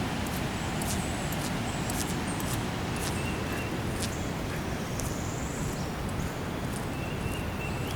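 Steady rush of river water pouring over a dam, with scattered light clicks on top.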